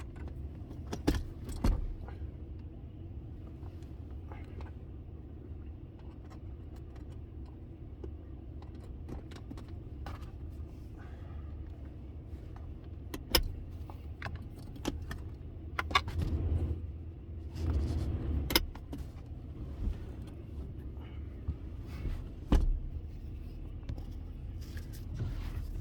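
A Ram pickup truck running, heard inside its cab as a steady low rumble. Sharp clicks and knocks are scattered through it, a couple about a second in and more from about 13 seconds in.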